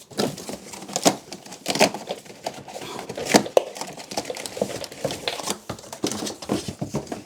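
Packaging rustling and crinkling, with irregular knocks and clatter, as a part is handled and pulled out of its box.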